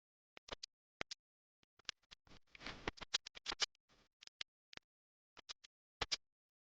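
Short, irregular scratching and crunching sounds, a dozen or so crisp scrapes with a longer rustle about two and a half seconds in.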